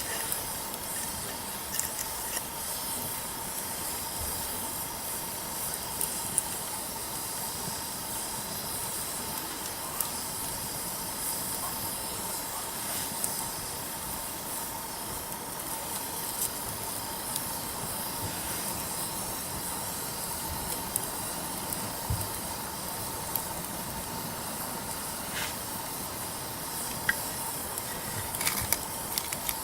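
Wood campfire burning with a steady hiss and scattered sharp crackles and pops, which come in a quick cluster near the end.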